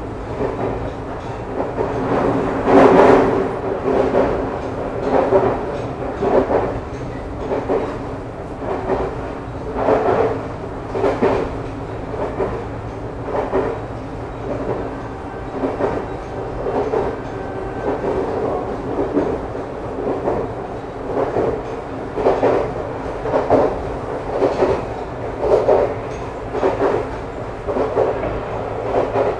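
Interior running sound of a Nagano Electric Railway 2100 series (ex-JR 253 series) electric train at speed: a steady rumble with wheels clattering over rail joints about once or twice a second, loudest about three seconds in.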